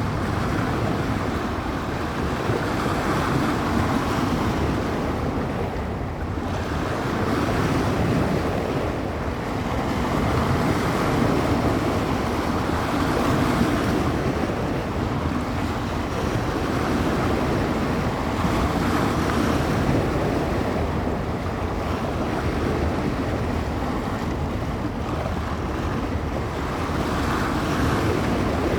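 Small wind-driven bay waves breaking and washing on the shore, the surf swelling and easing every few seconds. Wind gusts buffet the microphone.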